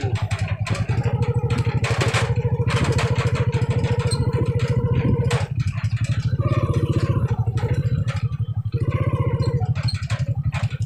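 Small motorcycle engine running under way, a fast steady beat with its pitch wavering slightly as the throttle changes.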